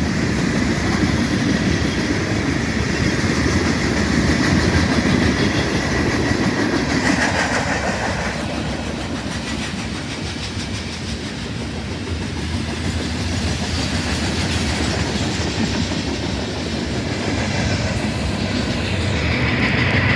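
Freight train cars rolling past, steel wheels clicking over the rail joints with a steady rumble.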